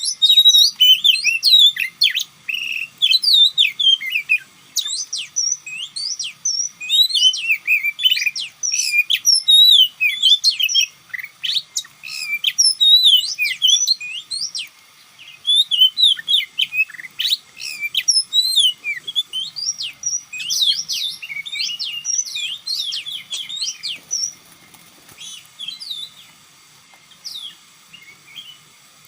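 Oriental magpie-robin song: a rapid, varied run of loud whistled notes and slurred phrases with almost no pause, briefly stopping about halfway and growing softer and sparser near the end.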